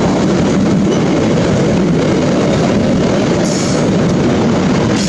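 Freight train of loaded double-deck car-carrier wagons passing close by: a loud, steady noise of steel wheels running on the rails.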